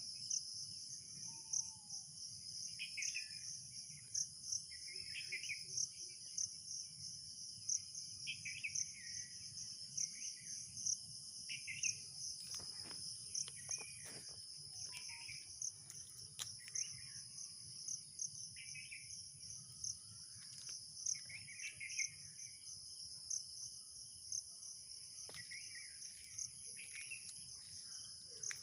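Steady high-pitched insect chorus, typical of crickets, pulsing rapidly and unbroken, with short bird chirps repeating every second or two over it.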